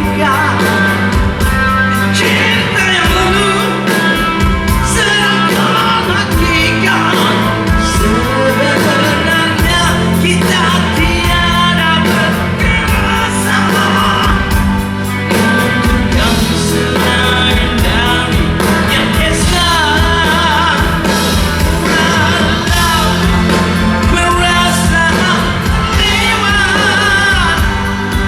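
Live rock band performing: a lead vocal sings over bass, guitars and drums, played loud in a large hall.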